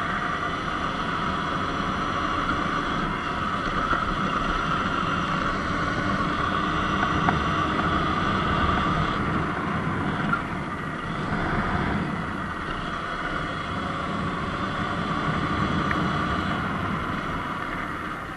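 Sur-Ron X Light Bee electric dirt bike riding steadily: a high motor-and-drive whine over the rush of wind on the microphone and tyre noise, easing off near the end.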